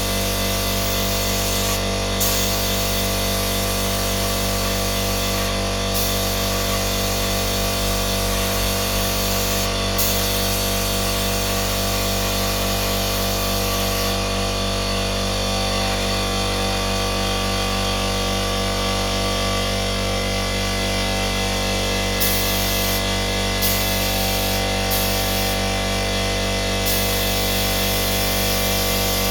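A power tool running steadily without a break, its motor giving a constant hum over a rough, rubbing noise.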